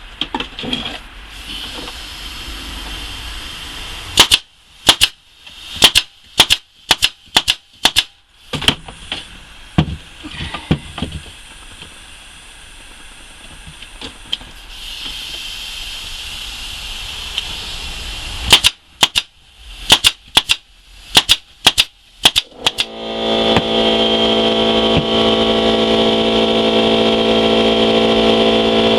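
Staple gun driving 1 1/4-inch staples into the pine ends of a wooden nuc box: two runs of sharp shots about two a second, some eight or nine, then about seven more. Near the end a motor starts and runs with a steady hum.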